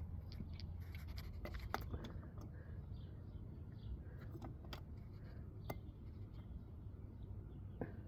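Channel-lock pliers working an outboard motor's spin-on oil filter tight: faint scraping of the tool on the filter can, with a few sharp metal clicks scattered through.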